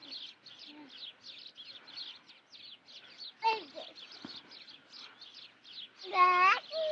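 Small birds chirping rapidly and repeatedly in a high register. A sharp call comes about halfway through, and a louder, short pitched call near the end.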